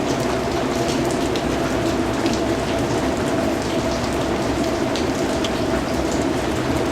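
Steady rainfall, a constant hiss of rain with scattered individual drops ticking through it.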